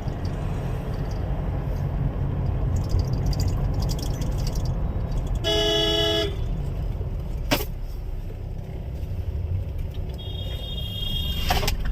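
Steady low rumble of a road vehicle in motion, with a single short horn blast about five and a half seconds in lasting under a second. A sharp click follows a couple of seconds later.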